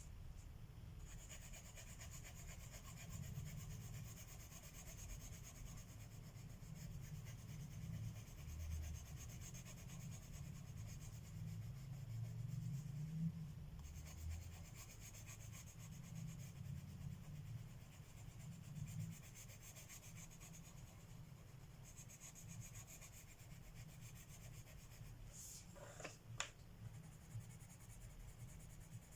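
Colored pencil rubbing on paper in steady shading strokes, with a short pause about halfway and a couple of sharp clicks near the end.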